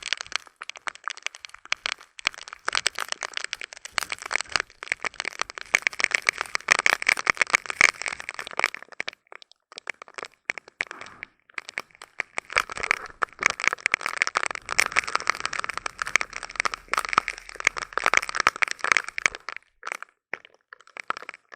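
Heavy tropical rain shower: a dense crackle of drops striking close by, easing briefly about ten seconds in and again near the end.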